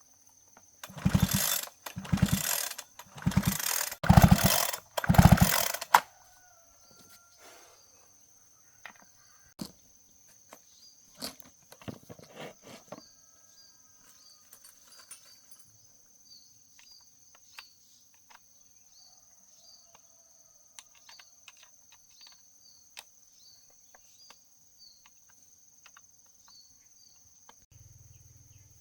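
A chainsaw's recoil starter pulled five times in quick succession, the engine turning over with each pull but not starting. Scattered light clicks follow.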